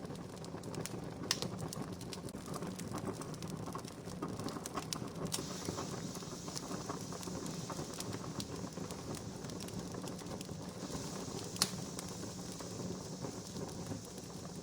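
Wood campfire crackling: a steady low hiss with scattered sharp pops, two louder ones about a second in and near the end.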